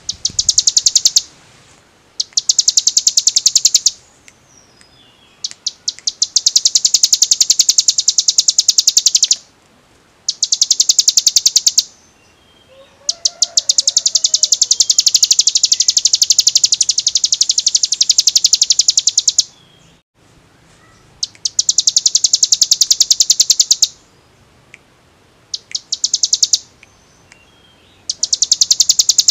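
Ciblek gunung (a prinia) singing its rapid 'ngebren' drill song: very fast, evenly repeated high notes run together into a machine-like trill. It comes in bouts of one to six seconds with short pauses between them.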